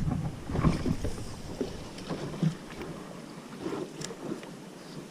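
Strong wind buffeting the microphone on a small fishing boat, with a few light knocks; the wind rumble drops away about three seconds in.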